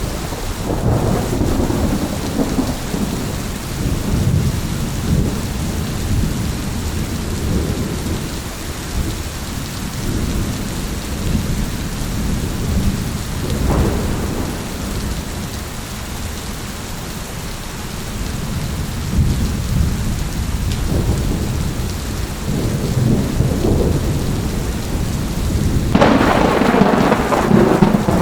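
Thunderstorm: steady rain with rolling low thunder rumbles throughout, a sharper burst about halfway, and a louder, brighter thunderclap near the end.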